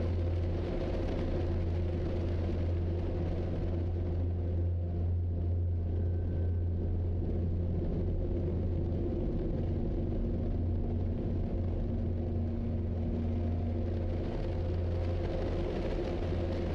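Steady low vehicle rumble: engine and road noise holding even throughout, with no sharp impacts.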